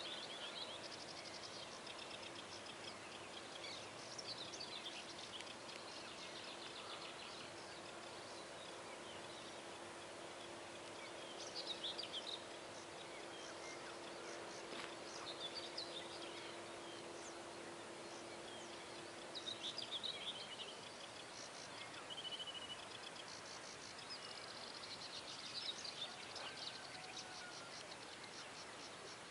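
Several birds singing and calling in an early-morning chorus, short phrases coming one after another over a faint steady hiss. A low steady hum runs underneath and stops about two-thirds of the way through.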